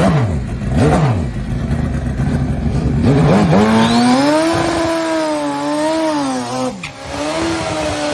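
Turbocharged Pro Extreme drag motorcycle engine revved in two quick blips, then brought up to high revs and held there for several seconds, with a brief dip near seven seconds.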